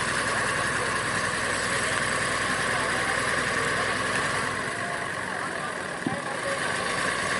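An engine running steadily at idle, with an even, unbroken hum.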